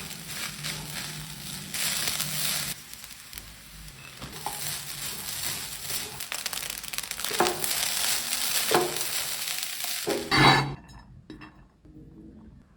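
Fried rice sizzling in a hot pan as it is stirred, with a knock of the spatula now and then. About ten and a half seconds in comes a louder clatter, after which the sizzling stops.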